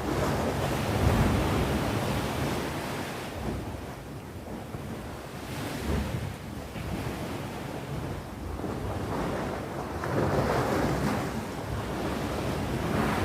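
Sea waves breaking on the shore: the surf swells and washes out, easing off in the middle and surging again about ten seconds in.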